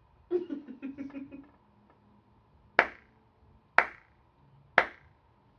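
Three sharp hand claps, evenly spaced about a second apart, which one person takes for syncing the audio with the video. A brief burst of speech comes just before them.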